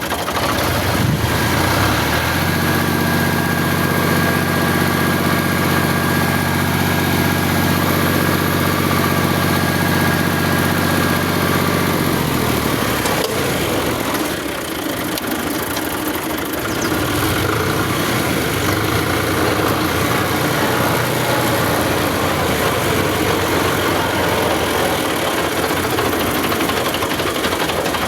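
Tractor engine running at a steady, raised speed, then about twelve seconds in its pitch drops and it settles into a rougher, lower idle.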